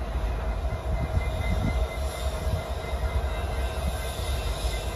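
BNSF diesel-electric freight locomotives passing with a tank car: the engines rumble steadily and the wheels roll on the rails.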